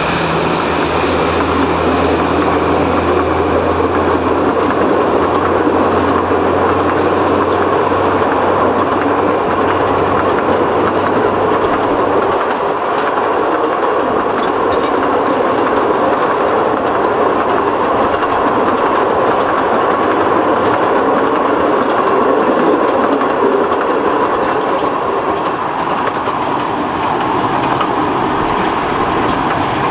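Narrow gauge industrial train running on the track, its wheels rumbling over the rails, with a low engine hum that fades out about a dozen seconds in.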